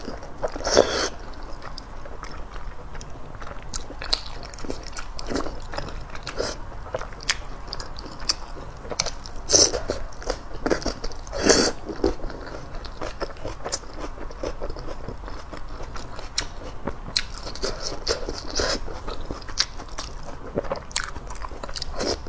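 Close-miked eating sounds of spicy chuan chuan hot pot food: steady chewing and biting with many small wet clicks and crunches. A few louder mouth noises stand out, about one second in and around nine and a half and eleven and a half seconds in.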